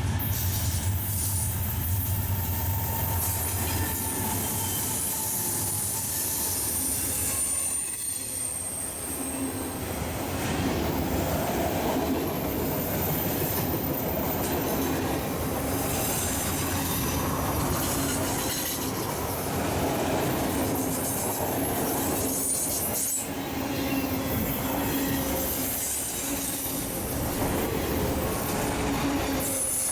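Railroad cars rolling past at steady speed, with the wheels squealing high against the rails now and then.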